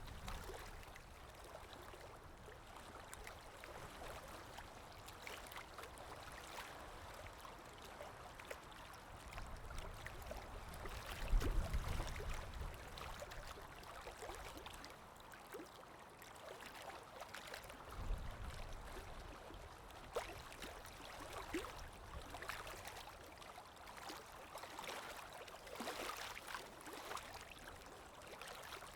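Calm small waves lapping, with a steady wash of water and fizzing, gurgling detail, swelling a little as a wave comes in about eleven seconds in and again near eighteen seconds.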